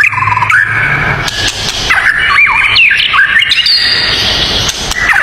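Songbird singing loud, varied whistled phrases, each note sweeping up and down, over a steady high hiss.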